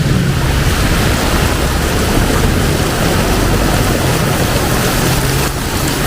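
Heavy rain pouring down in a loud, steady hiss, with the low hum of a motor vehicle's engine underneath that fades out early on and comes back in the second half.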